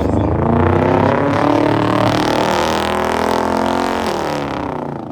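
A car engine revving hard at high rpm, its pitch wavering, then fading away quickly near the end.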